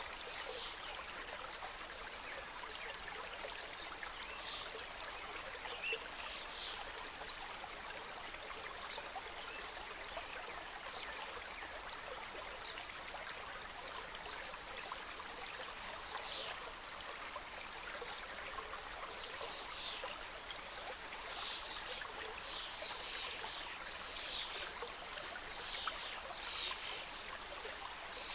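Forest mountain stream: water cascading and rushing steadily over rocks.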